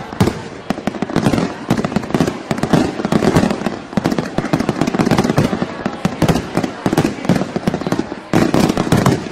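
Fireworks going off in a rapid, dense barrage of bangs and crackles, easing for a moment about eight seconds in before another volley.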